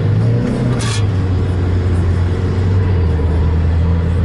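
Steady low rumble of a car driving, engine and road noise heard from inside the cabin, with a brief hiss about a second in.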